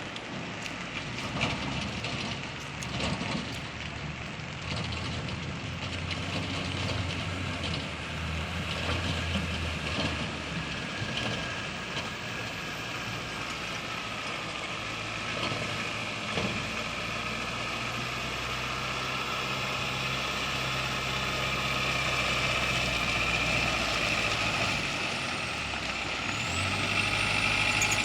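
Diesel vehicle engine running steadily under load, a low drone that slowly gets louder toward the end, with a faint high whine appearing about halfway through.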